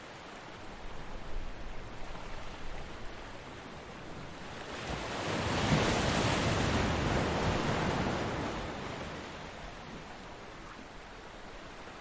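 Ocean surf on a beach: a smaller wash in the first few seconds, then a bigger wave breaks about five seconds in and its wash fades away over the next four seconds.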